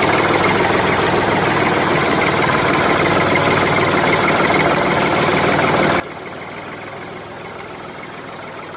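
Small engine running steadily at a constant speed. About six seconds in the sound drops off suddenly to a much quieter steady noise.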